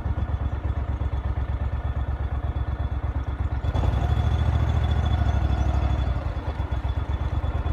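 Engine of the vehicle being ridden in, running with a rapid, even pulse at low speed. About four seconds in it gets louder for a couple of seconds as the throttle picks up, then eases back.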